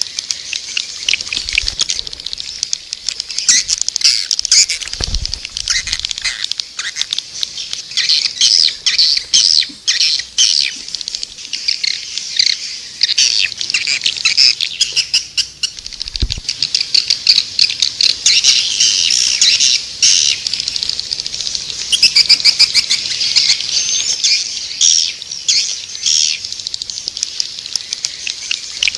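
Swiftlets twittering in a dense, continuous chorus of rapid, high chirps and clicking trills: a swiftlet lure call. There are two brief low thumps, about five and sixteen seconds in.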